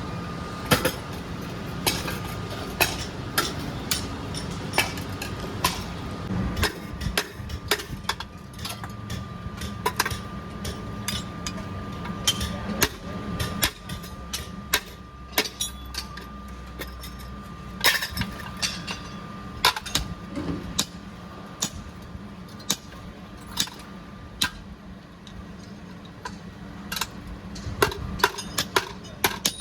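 Steel chain-making work: repeated sharp metallic knocks and clinks at an uneven pace over a steady machine hum, with a faint high whine that fades out about three-quarters of the way through.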